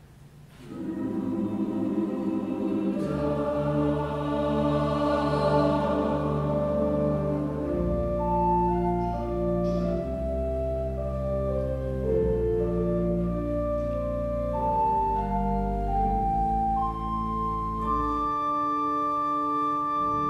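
Church choir singing slow, sustained chords with organ accompaniment, entering after a brief hush near the start. Deep organ bass notes join a few seconds in and drop away near the end, leaving a held high chord.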